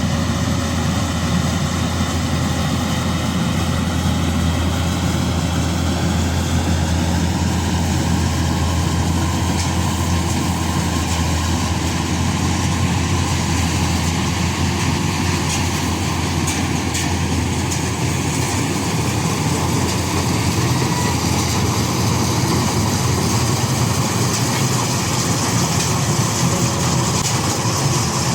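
Combine harvester running steadily, its engine giving a loud, even low drone.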